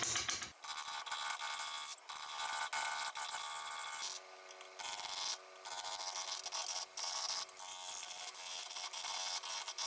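Power tool working cottonwood, a steady rasping cut broken by short pauses, as during the cutting or turning of a vase blank. A few seconds of music end about half a second in.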